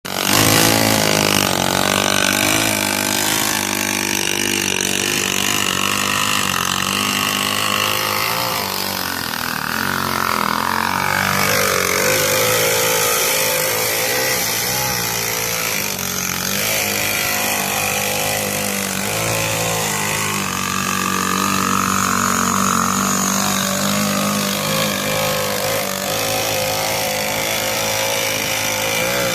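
Small mini bike engines running, mostly at a steady idle, with the throttle blipped so the pitch rises and falls twice, about a third of the way in and again about two-thirds of the way in.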